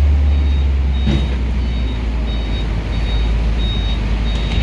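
Heavy vehicle engine running with a steady low rumble while a reversing alarm sounds a regular series of short high beeps, about two a second.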